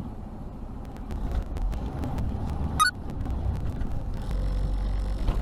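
Road and engine noise of a moving car heard from inside, a steady low rumble with scattered sharp clicks and one brief sharp chirp near the middle. The rumble grows heavier near the end.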